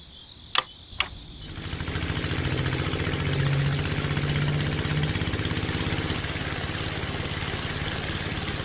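Two sharp clicks, then a small engine-like motor starts up and runs steadily with a fast, even pulsing, the running sound of the homemade mini tractor.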